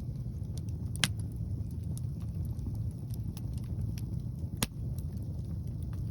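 Wood fire of burning logs crackling, with two sharp pops about a second in and near the end. Wind rumbles steadily on the microphone underneath.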